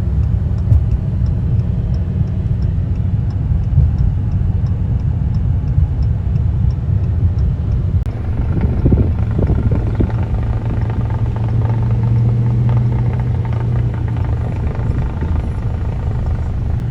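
Steady low mechanical rumble of a running vehicle or machine. Faint regular ticking runs through the first half, and about halfway through the sound shifts to a steadier low hum.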